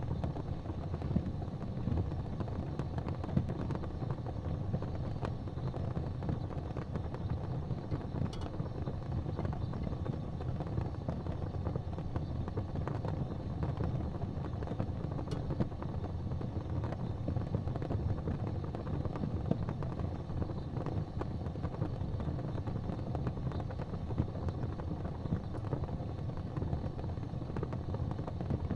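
Wood fire burning in an open fireplace: a steady low rumble of flames with continual light crackling and two sharper pops, about a third of the way and halfway in.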